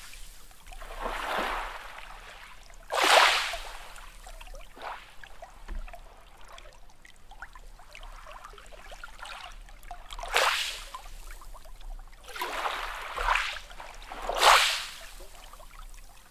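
Sea waves splashing in short, sudden bursts a few seconds apart, loudest about three seconds in and again near the end, with quieter water washing between them.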